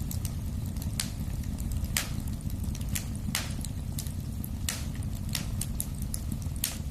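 Wood fire crackling in a fireplace: a low steady rumble of flames with six sharp pops about a second apart and fainter small snaps in between.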